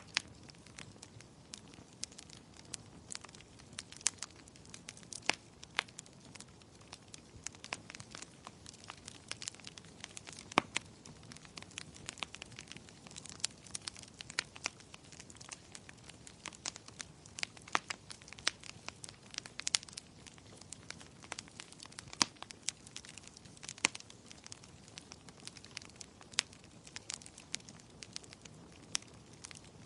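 Wood fire crackling in a fireplace: irregular sharp pops and snaps, several a second, some louder than others, over a soft steady hiss of gentle rain.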